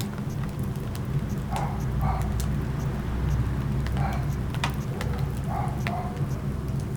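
Wood fire in a fireplace crackling, with sharp scattered pops over a low steady rumble of the flames. A few short, soft, muffled sounds come and go among the crackles.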